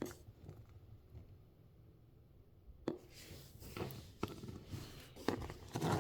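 Quiet handling of small miniature-craft parts: nearly silent at first, then a few light clicks and taps about halfway through and near the end.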